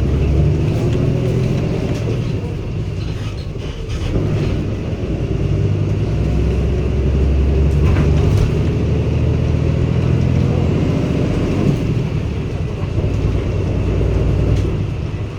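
Cummins ISB diesel engine of a 2016 Daewoo NEW BS090 city bus running while the bus drives, heard from inside the bus. The engine note dips briefly about four seconds in, then builds and is loudest through the middle before easing near the end.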